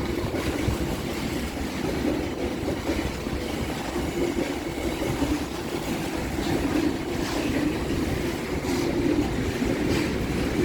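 Freight train passing over a level crossing: a steady rumble and rattle of wagon wheels on the rails, with faint clicks as the wheels cross rail joints.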